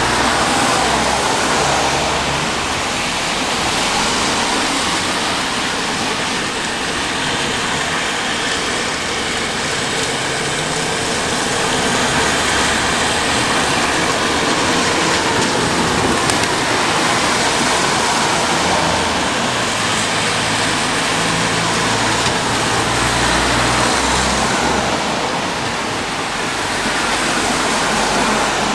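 Steady rain falling in a constant hiss, with slow swells in loudness every several seconds and a low rumble underneath.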